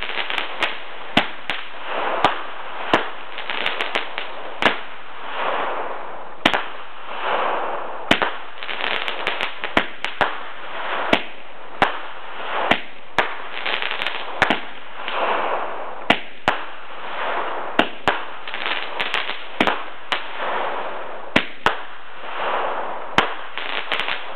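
Fireworks going off: a long run of sharp bangs at irregular intervals, sometimes several a second, over a constant rushing noise.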